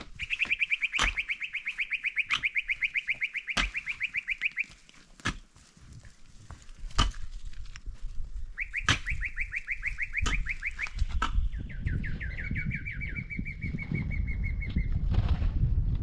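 A bird trilling: three runs of rapid, evenly repeated chirps, the last with a smoother, drawn-out note. Sharp knocks sound now and then, and a low rumble builds up in the second half.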